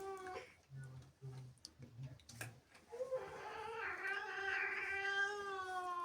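Angry domestic cat yowling. One drawn-out yowl ends just after the start, a few short low sounds follow, and about halfway in a long yowl begins that slowly falls in pitch.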